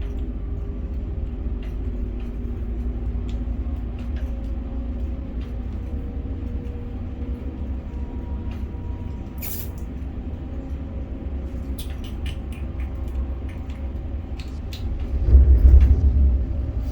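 Steady low rumble of a container crane's machinery, with faint hum tones and scattered light clicks, swelling louder for a second or so near the end.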